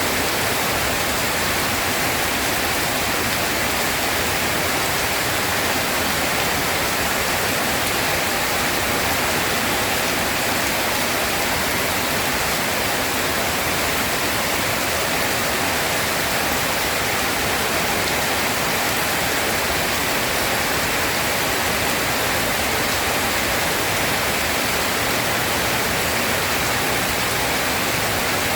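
Steady rain falling, a dense, even hiss that does not change, with no thunder.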